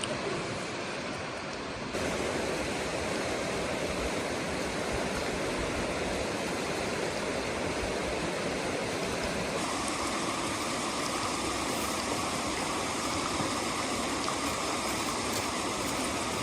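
Steady rushing noise of heavy rain. Its tone changes abruptly about two seconds in and again near the ten-second mark.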